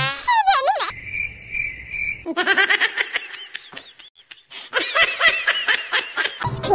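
A child's voice exclaiming briefly, then three short high beeps, then a long run of high-pitched laughter in quick rising-and-falling bursts with a short break in the middle.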